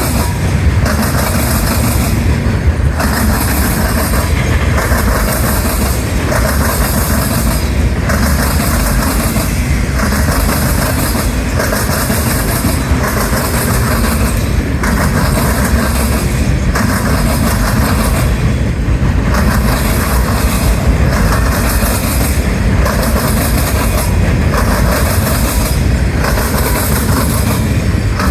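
Freight cars of a fast manifest freight train rolling past with a loud, steady rumble. A rhythmic clatter swells and fades about every two seconds as each car's wheels pass.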